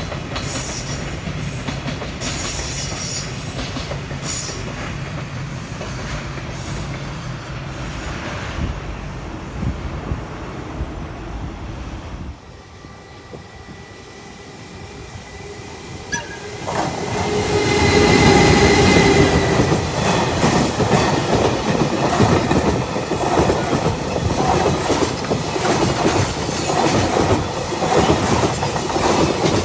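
Freight trains passing: wagon wheels clattering rhythmically over rail joints, slowly fading. About twelve seconds in the sound drops suddenly, then another train approaches and passes loudly, with a high wheel squeal and continued clatter.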